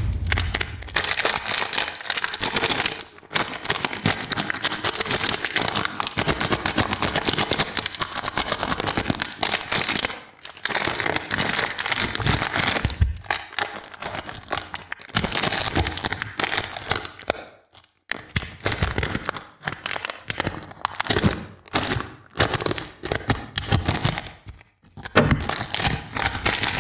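Close-miked plastic wrapper of a Lion Peanut chocolate bar crinkling and crackling as it is torn open and peeled off. The sound is nearly unbroken at first, then comes in separate bursts with short pauses between them.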